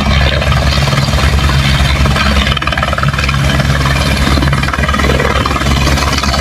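Helicopter running close by: a loud, steady engine and rotor sound with a fine, rapid pulse from the blades.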